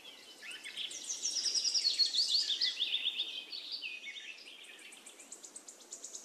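Birds chirping: a run of quick, high chirps that fall in pitch, loudest about one to three seconds in, then a fast high trill near the end.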